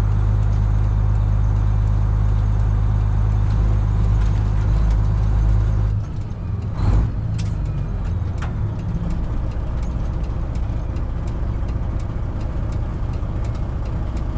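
Freightliner Classic XL semi truck's Detroit Diesel 12.7 engine running steadily, then dropping to a quieter idle about six seconds in. A short hiss of air comes about a second after that.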